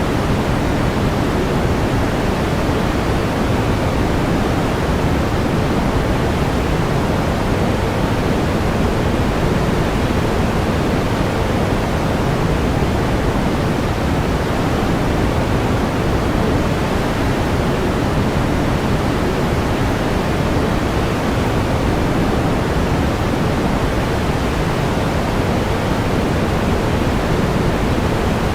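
Steady pink noise: an even, unchanging hiss weighted toward the low end, like a distant waterfall.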